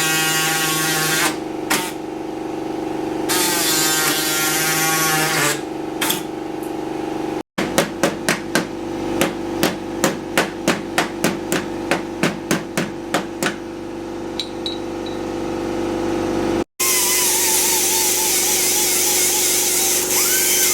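Repeated hammer blows, roughly two a second, for about nine seconds. Before and after them comes a steady mechanical hum, and the sound breaks off abruptly twice at edits.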